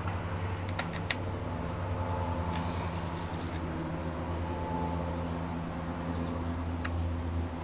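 Small sharp clicks and taps, the sharpest about a second in, as a push pin is worked through a Trinity Fury stock into a Tippmann A-5 paintball marker, over a steady low hum.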